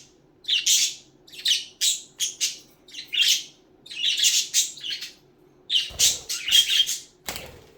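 Pet budgerigars chirping and chattering in short, high-pitched bursts, about one a second.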